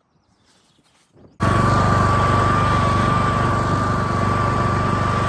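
Lawn mower engine running steadily, cutting in suddenly about a second and a half in, with a constant high whine over a low hum.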